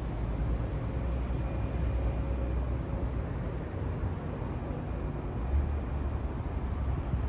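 Steady low rumble of city traffic, with a faint thin hum running through it.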